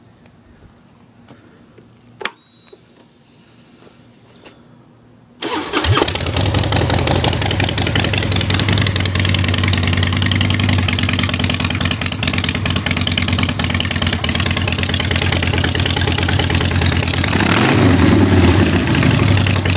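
2003 Harley-Davidson Night Train's V-twin engine, breathing through Paul Yaffe shotgun exhaust pipes, started after a click: it catches suddenly about five seconds in and runs loud and steady, a little louder near the end.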